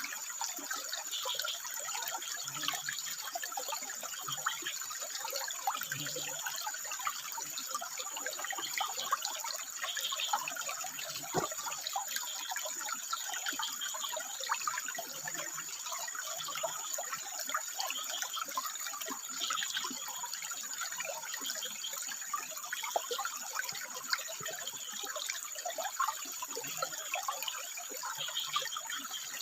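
Water trickling and splashing steadily over rocks, with short frog calls recurring every second or two.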